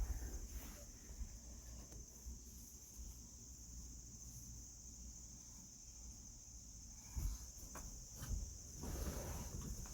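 Crickets chirring steadily in a high, even drone, with a low rumble and a few soft knocks of handling about two-thirds of the way through.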